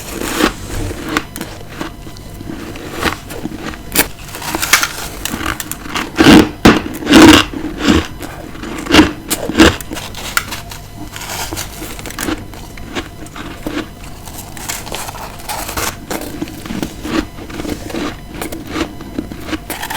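Close-miked biting and chewing of ice: irregular crunching bites, loudest in a cluster about a third of the way in and again around halfway.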